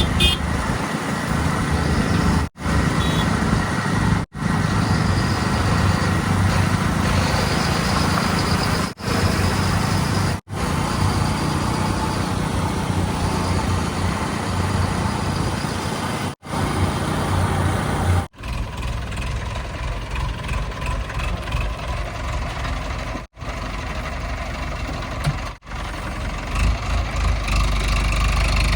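Heavy diesel engines of earthmoving machinery and trucks running steadily, in short stretches that break off sharply and resume about eight times. The sound is lighter in the last third.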